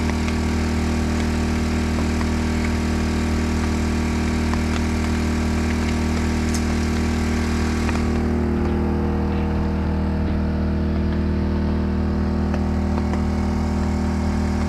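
Portable generator engine running steadily at a constant speed, with an even hum. The upper hiss thins out about eight seconds in.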